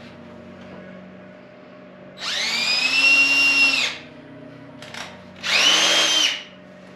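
Power drill run twice, each run spinning up with a rising whine and then holding steady, the first for about a second and a half and the second for about a second.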